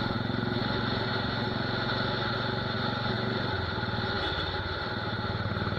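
Royal Enfield Desert Storm's 500 cc single-cylinder engine running steadily through a loud aftermarket torpedo/megaphone silencer, its exhaust note dipping slightly in pitch about three and a half seconds in.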